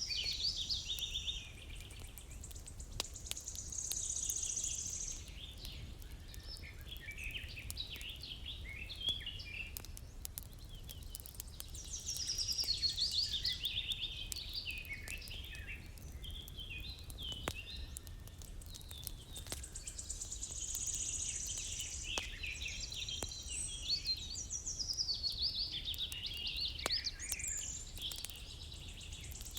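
Several songbirds chirping and trilling, in overlapping waves that swell and fade every few seconds, over a steady low rumble with scattered faint clicks.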